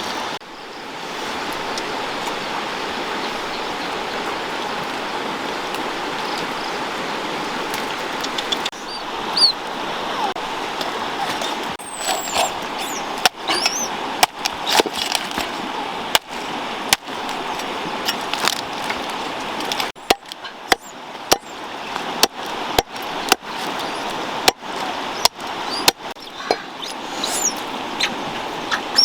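Steady rush of running water. From about twelve seconds in, it is joined by a series of sharp knocks and short high bird-like chirps.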